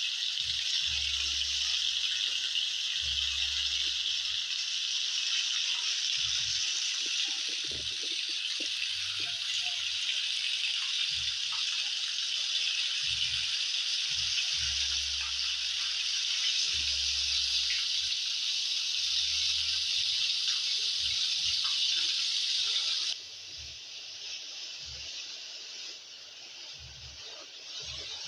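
Heavy rain pouring down in a steady dense hiss, with low rumbles of wind buffeting the microphone now and then. About five seconds before the end it drops abruptly quieter.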